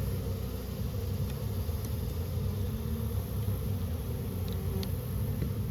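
Steady, dense buzzing of a honeybee colony disturbed while its comb is being cut out, a continuous low hum.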